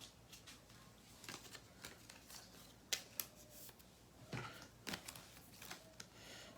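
Trading cards being handled: faint, scattered rustles and light clicks as cards are slid and set down.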